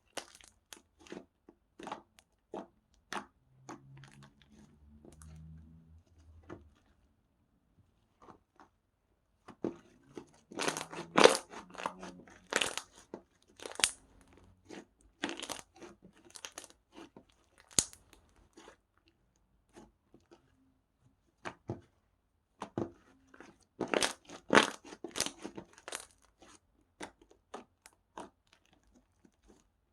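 Slime being squeezed and stretched by hand, giving sharp crackling snaps and pops. They come in clusters, densest about ten seconds in and again near twenty-four seconds, with sparser pops between.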